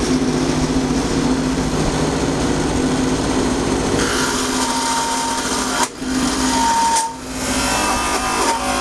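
Electric power tool running steadily, working into the wood, with two brief dips in level about six and seven seconds in.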